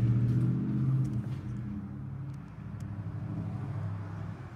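A motor vehicle's engine running outside, a steady low hum that is loudest in the first second, drops a little, and is fading away at the end.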